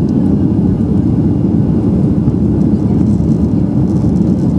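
Steady, loud engine noise of a Boeing 737-800's CFM56-7B turbofans heard inside the passenger cabin: a dense low rumble that holds even, with no change in pitch or level.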